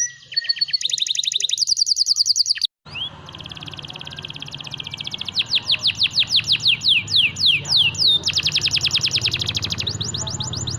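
Canary singing long, fast trills of repeated whistled notes, some runs rising and some falling in pitch. Its song breaks off into a brief silent gap about three seconds in, then goes on.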